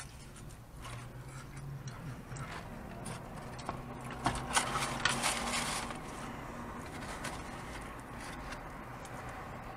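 Close-up eating sounds: chewing and crunching of fried battered fish and crumbs, with paper wrappers rustling. It is busiest about four to six seconds in, over a low steady hum.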